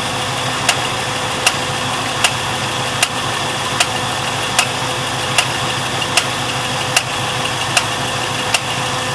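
Pontiac 455 V8 of a 1973 Trans Am idling with the air cleaner off, with a sharp knock coming through regularly, about every three-quarters of a second. It is the abnormal engine noise being chased, which the owner suspects comes from the carburettor.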